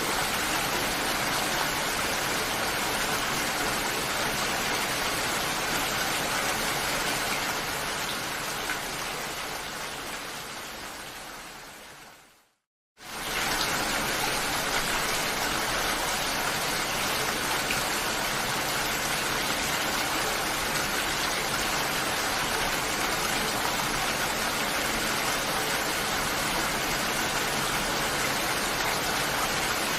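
Steady, heavy rain. About eight seconds in it begins to fade, sinks to silence for about half a second, then cuts back in suddenly at full level.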